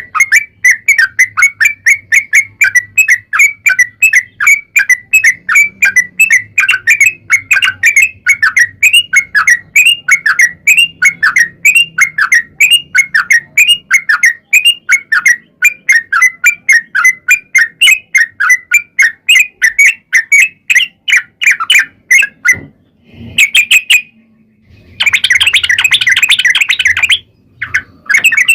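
Yellow-vented bulbul (trucukan) singing a long, fast run of repeated chirping notes, about four a second. The run breaks off after about 22 seconds, and a short pause is followed by a denser, busier burst of song near the end.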